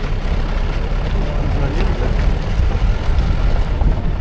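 Safari jeep driving on a rough jungle track: a loud, steady, low rumble of engine and road noise.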